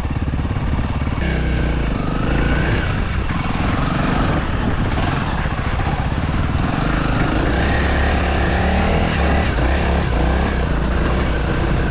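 Honda CRF300L dirt bike's single-cylinder engine running under way, its note rising and falling a little with the throttle.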